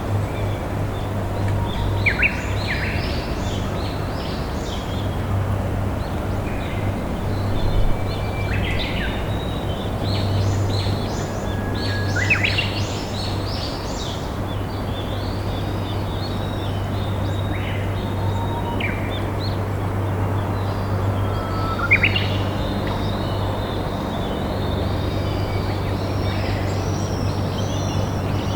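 A river flowing steadily, with wild birds calling over it: short chirps and whistles every few seconds, busier near the end.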